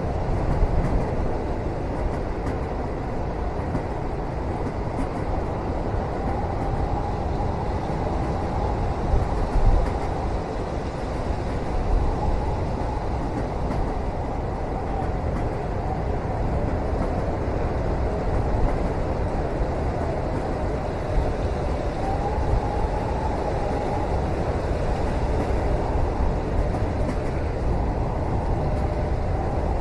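Steady low rumble of a moving train heard from inside a passenger cabin, with a faint wavering whine and a few light knocks.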